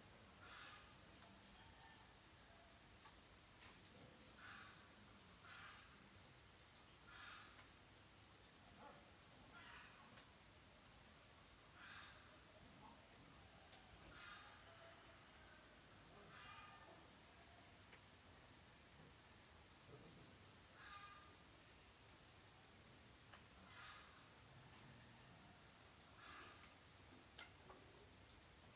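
Crickets chirping in high trills of rapid pulses, each lasting several seconds with short pauses between, over a steady high insect hum, with faint short chirps underneath.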